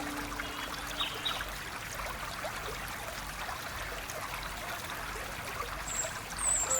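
Stream water running and trickling steadily, with a few short bird chirps about a second in and again near the end.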